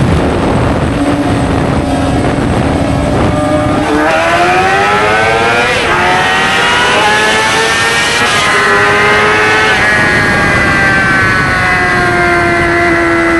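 Motorcycle engine under way, with wind rushing over the microphone. About four seconds in the engine revs up in pitch, drops briefly near six seconds at a gear change, and climbs again. It then settles to a steadier note.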